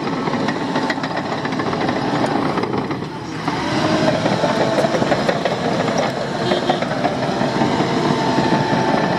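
Bulldozer's diesel engine running under load while its steel crawler tracks clank and rattle, as it tears up old asphalt.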